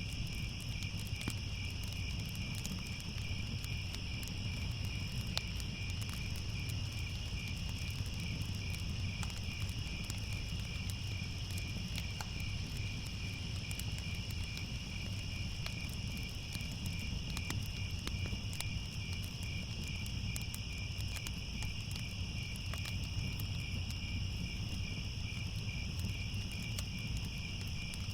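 Crickets chirping in a continuous, evenly pulsing high trill over a steady low rumble, with faint scattered crackles like a fire.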